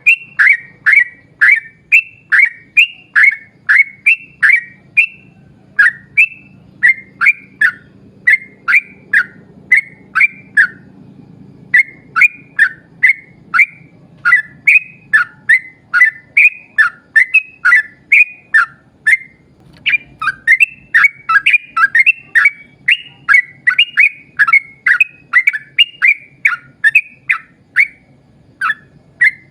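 Yellow-vented bulbul (trucukan) singing a long, fast run of short bubbly chirps, about two a second, with brief pauses twice.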